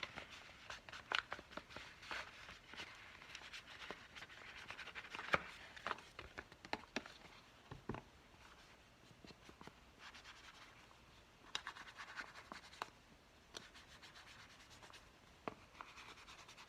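Ink blending tool scrubbing and dabbing ink onto paper: a dry, scratchy rubbing that comes in spells, with sharp taps here and there.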